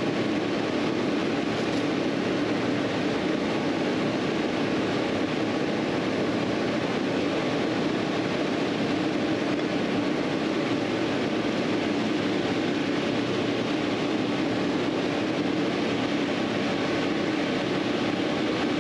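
A steady, unchanging mechanical drone.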